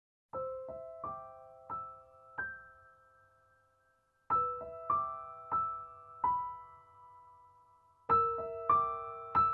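Background piano music: a slow melody of single struck notes in three short phrases, with brief pauses between them.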